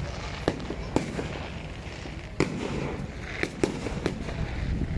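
Fireworks going off: about six sharp cracks and bangs at irregular intervals, the loudest about two and a half seconds in, over a steady low rumble.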